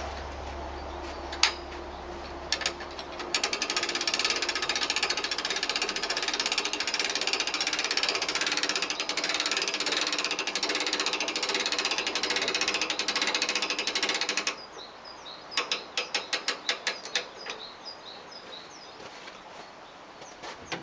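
A ratchet mechanism clicking very fast and without a break for about eleven seconds. It stops abruptly and is followed by a short run of about a dozen slower, separate clicks, with a few single knocks before the fast ratcheting begins.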